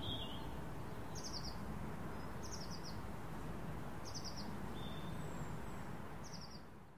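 Forest ambience with a small bird repeating a short, high, quick trill about every one and a half seconds over a steady low hiss, fading out at the end.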